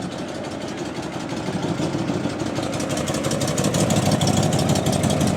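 Classic car engine idling with a rapid low rumble, growing louder from about two seconds in as it comes closer.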